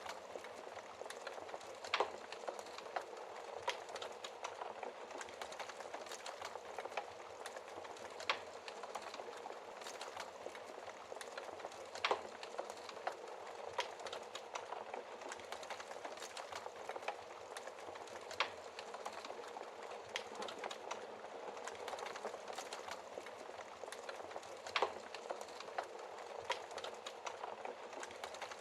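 Wood fire burning with a steady crackle, sharp pops of the burning logs standing out every few seconds.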